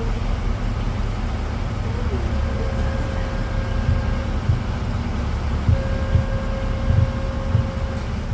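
A passenger boat's engine running with a steady low rumble and occasional low thumps. A steady tone sounds twice, about two seconds each.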